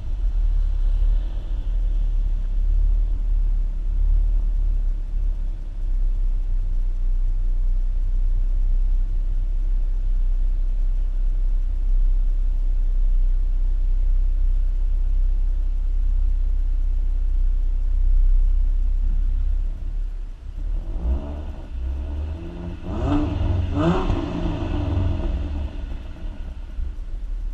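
2014 Ford Mustang V6 with its stock exhaust, a steady low rumble while cruising. About three quarters of the way through, the engine note rises as the car accelerates, then settles again near the end.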